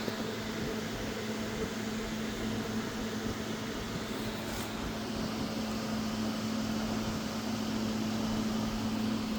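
A steady machine hum with a low tone over a background hiss, starting abruptly.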